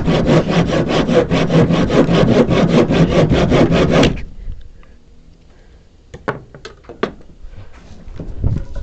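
Handsaw cutting through wood in quick, even strokes, stopping abruptly about four seconds in. After that, a few light knocks and quieter handling of the wood.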